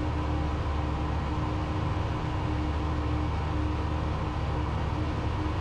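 Cessna 172's piston engine and propeller droning steadily in cruise flight, a constant low drone with a faint steady hum above it.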